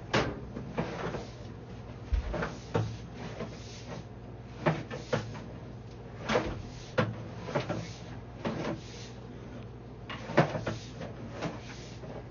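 Irregular knocks and clunks, about a dozen in all, over a steady low hum, as a sewer inspection camera's push cable is fed into the drain line.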